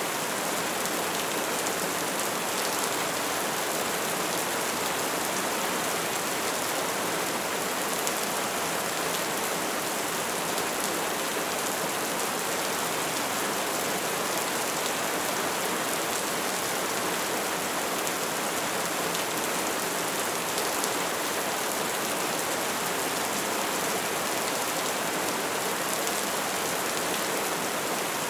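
Steady soft rain falling, an even hiss of many small drops with no single drop standing out.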